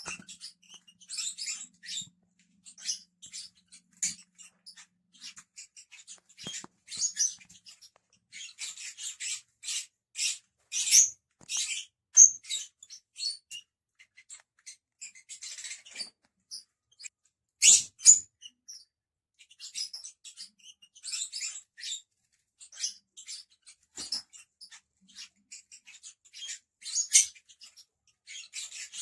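Lovebirds chirping and chattering: many short, shrill, high-pitched calls in quick irregular runs, with a few louder calls now and then.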